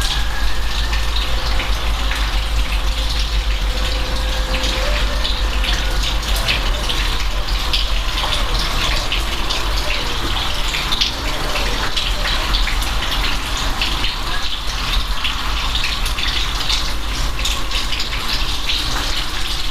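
Steady rain falling, with many close, distinct drop hits over a continuous wash of water noise and a steady deep rumble underneath.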